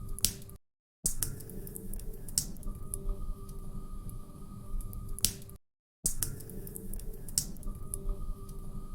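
Log fire crackling in a fireplace: scattered sharp crackles and a few louder pops over a low rumble, with a faint steady hum. The sound cuts out twice for about half a second, about half a second in and again about five and a half seconds in.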